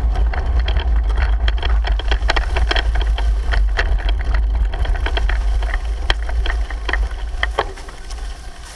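Wind buffeting a camera microphone during a bicycle ride, with rapid irregular rattling and clicking from the bike. The noise drops off about eight seconds in.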